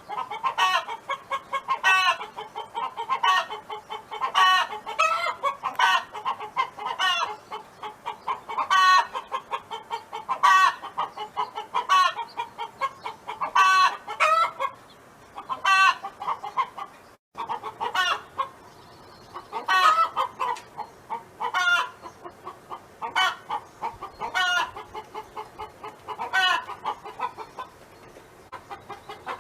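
A domestic hen clucking and calling over and over, short loud calls roughly every second or two with quieter rapid clucks between them.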